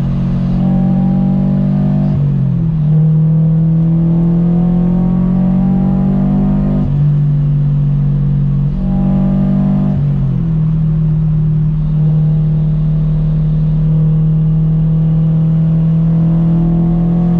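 Supercharged Subaru BRZ flat-four with a catless header and single-exit exhaust, running under load while driving. The engine note climbs slowly and steps abruptly in pitch several times, as at gear changes.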